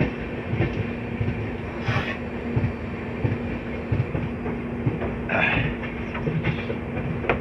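Indian Railways passenger coach rolling along the track, heard from its open door: the wheels clatter in uneven knocks over the rails, over a steady rumble and a low hum.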